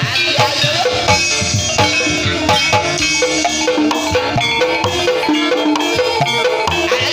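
Ebeg (kuda kepang) gamelan music: mallet-struck keyed percussion playing a dense run of notes over steady hand-drum strokes.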